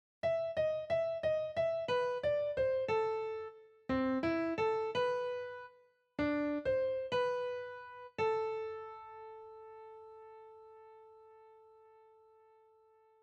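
Piano melody played back by Noteflight notation software, one note at a time, each note struck and then dying away. It opens with quick repeated notes, goes through two short phrases, and ends on a long held note fading out over the last five seconds.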